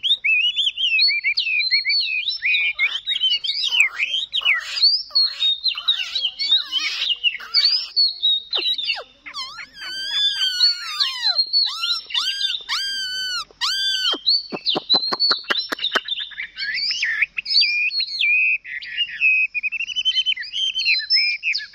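A Chinese hwamei (họa mi) songbird singing a long, unbroken, varied song of rapid whistles and warbles. About halfway through it repeats a run of slurred whistled notes, then gives several very fast downward-sweeping notes before returning to quick warbling.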